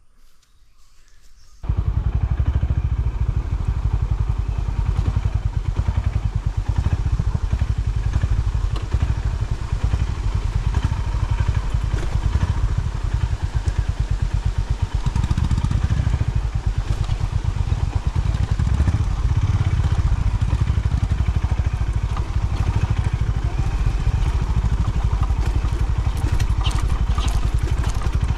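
Honda CB350's air-cooled single-cylinder engine running with a dense low exhaust thump. It comes in abruptly about a second and a half in.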